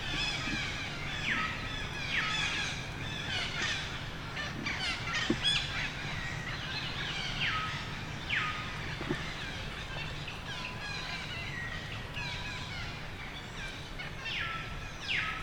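Repeated high-pitched animal calls, each sweeping quickly down in pitch and ending on a short held note, about one every second, among fainter chirping birds.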